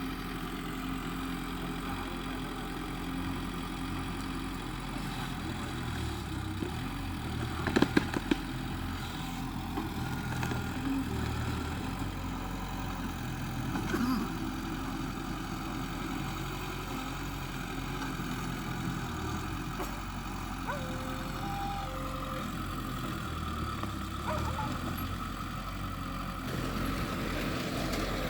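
A diesel engine of heavy earthmoving machinery running steadily, its pitch and load shifting now and then. A quick cluster of sharp knocks about eight seconds in, and another around fourteen seconds.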